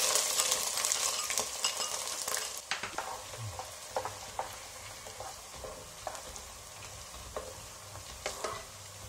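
Julienned ginger frying in hot sesame oil: a loud sizzle as it goes into the pot, fading over several seconds, while a wooden spatula stirs it with scattered knocks and scrapes against the pot.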